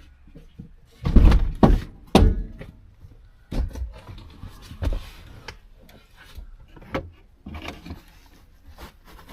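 Knocks and thuds of a truck headliner panel being wrestled and bumped about inside the cab. A cluster of loud knocks comes about a second in, followed by scattered, lighter thumps.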